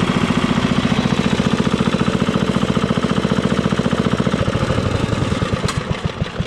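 Gasoline engine driving a welding machine built from a WWII aircraft generator, running with an even firing beat. Over the last two seconds the beats slow and spread out as the engine winds down.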